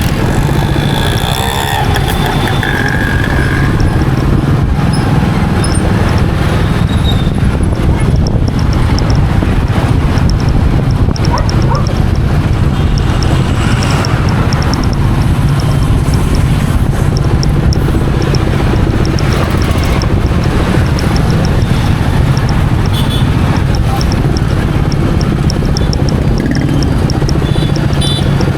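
Royal Enfield Meteor 350's single-cylinder engine running steadily while riding, under a constant rush of wind and road noise.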